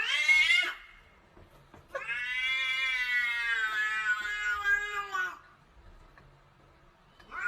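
A cat meowing: a short rising meow that ends in the first second, then one long drawn-out meow of about three and a half seconds that drops in pitch as it ends, and the start of another rising meow right at the end.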